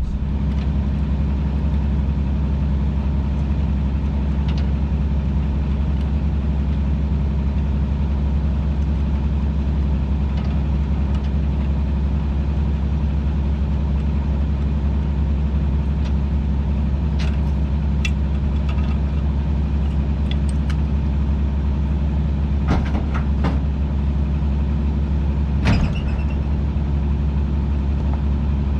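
Motor vehicle engine running at a steady speed, a constant low hum that neither revs up nor down. A few short clicks or knocks come near the end.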